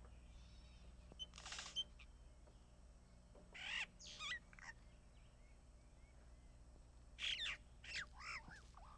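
Birds calling in three short bouts of high chirping calls that swoop up and down: one about a second in, one near the middle and a longer run near the end. A faint steady low hum lies under them.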